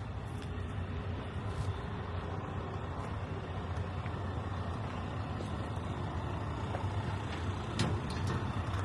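Large truck's engine idling steadily with a low rumble, a few light clicks near the end.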